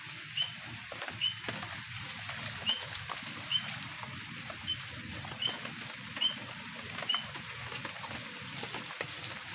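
Short, high chirps from a small animal, repeated irregularly about once a second, over the steady patter of light rain with scattered faint knocks.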